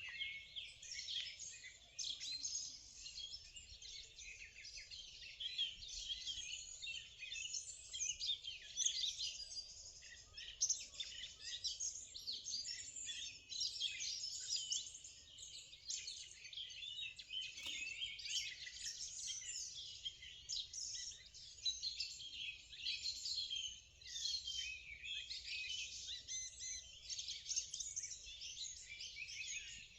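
Morning chorus: many small birds singing and chirping at once, a dense, continuous tangle of short high trills and tweets.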